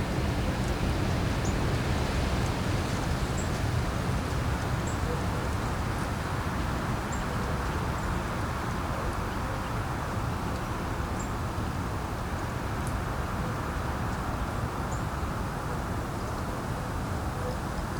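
Wind blowing steadily, with a low rumble, and faint high bird chirps every second or two.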